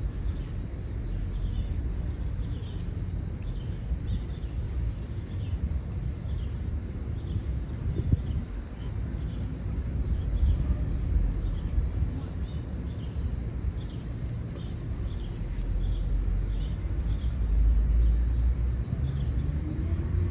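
Insects chirping in a steady, evenly pulsing high chorus, over a continuous low rumble that swells near the end.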